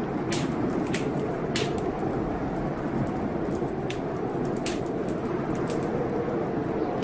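Fireplace fire crackling, with irregular sharp pops, over a steady rush of rain.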